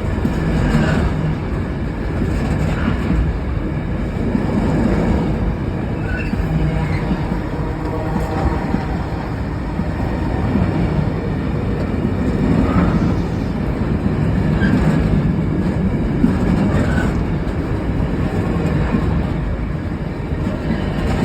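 Long intermodal freight train rolling past at speed, a steady heavy rumble with wheel clatter swelling about every two seconds as wagon bogies go by.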